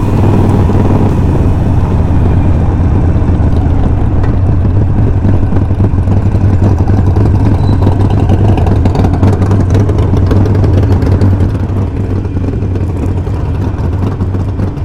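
Motorcycle engine running steadily at riding speed, with heavy wind rushing over the microphone.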